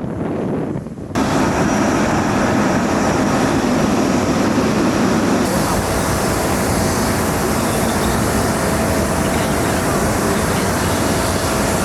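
Jet airliner engine noise: a loud, steady rushing noise with a faint steady whine, starting abruptly about a second in after wind on the microphone.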